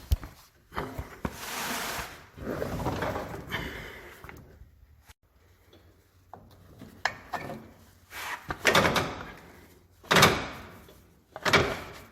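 Heavy machine bed being pulled into place over rollers: irregular scraping and knocking in short bursts, with a quieter pause around the middle.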